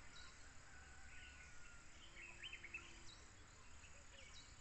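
Quiet outdoor ambience, with faint bird chirps now and then.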